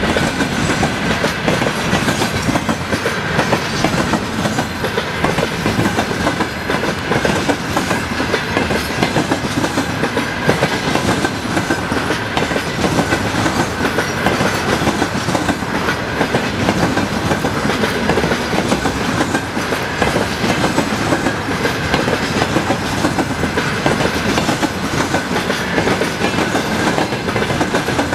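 A train's cars rolling past, their wheels clattering steadily over the rail joints, with a thin steady high tone running underneath.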